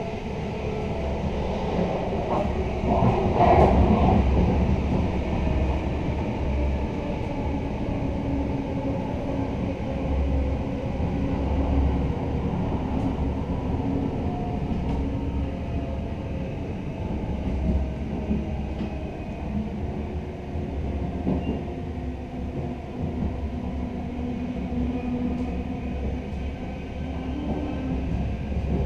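Running noise inside the door vestibule of a moving intercity passenger coach: a steady low rumble of wheels on the track with uneven rattling, louder for a moment about three to four seconds in.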